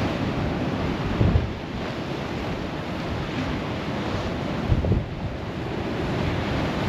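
Rough sea surf washing steadily under strong wind, which buffets the microphone in two heavy low gusts, about a second in and again near five seconds.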